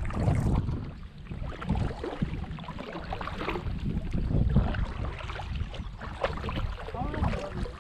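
Kayak paddles dipping and splashing in the water with irregular strokes, over the low rumble of wind on the microphone.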